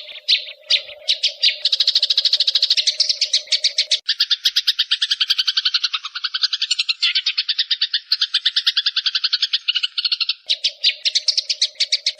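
Eurasian tree sparrows giving a fast, unbroken chatter of short chirps, about ten a second: the agitated calls of sparrows fighting. The call changes abruptly about four seconds in and changes back near the end.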